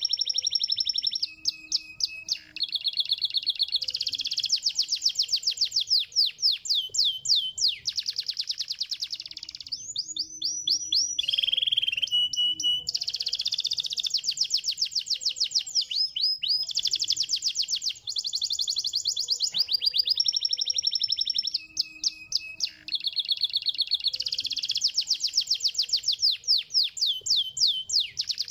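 Canary singing a continuous song of rapid, high trills, switching to a new trill every second or two.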